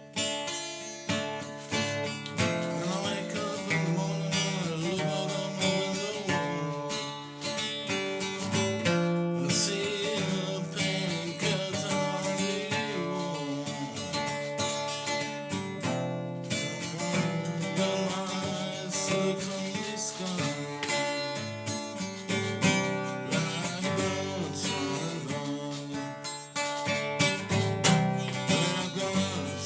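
Acoustic guitar music, plucked and strummed, with what may be a singing voice over it.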